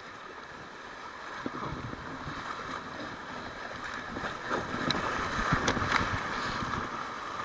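Rushing river water around a kayak running through current toward rapids, growing steadily louder, with a few short knocks.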